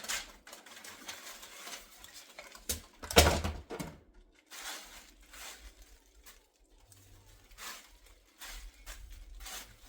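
Handling noise as a hairnet is pulled off a synthetic wig: irregular rustling and scuffing strokes, with one louder thump about three seconds in.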